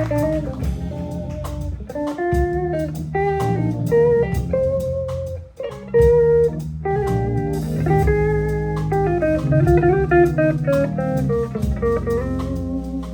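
Live band with organ, electric guitar and drum kit playing an instrumental passage of a slow blues-tinged song: a melodic lead line of changing notes over a steady low bass and drums.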